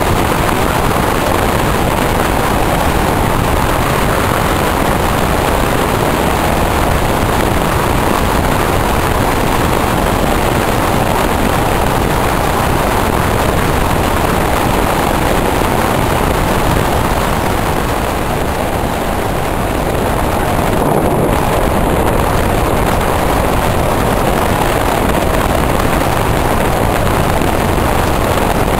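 Passenger train running at speed: a steady rush of wind and wheel noise, easing slightly for a couple of seconds about two-thirds of the way through.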